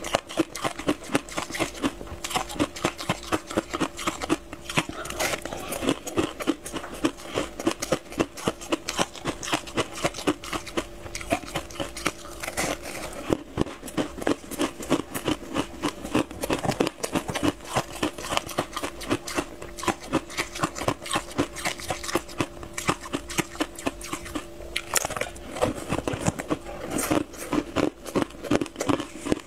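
Close-miked crunchy chewing: a person biting into and chewing a crisp, crumbly snack, with dense crackling crunches several times a second.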